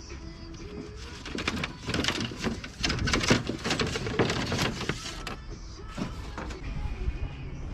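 Clattering and rattling knocks of hard objects being handled, coming thick and fast for a few seconds from about a second and a half in, then easing off.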